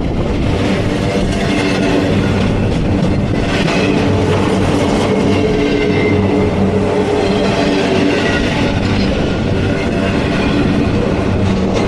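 Freight train rolling past at a steady, loud level: wheels running on the rails with a continuous rumble.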